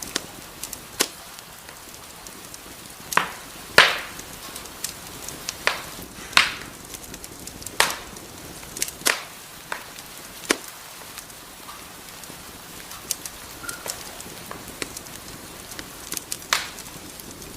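Wood fire crackling in a fireplace: a steady soft hiss with irregular sharp pops and snaps, a few of them louder.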